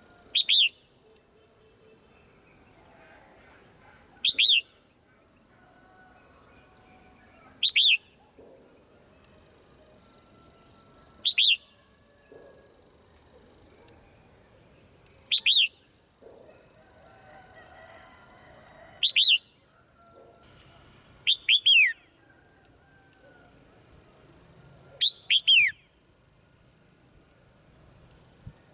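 Swallow calling: a short, loud falling chirp about every four seconds, coming in quick pairs and triplets in the later part. A steady high hiss runs underneath.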